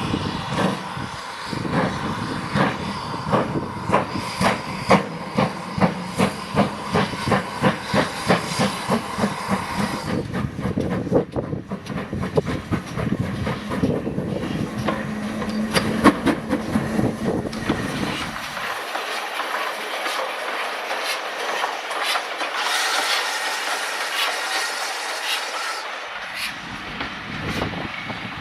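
Steam train running past, with a regular beat about twice a second for the first several seconds, then a steadier hissing, rushing sound.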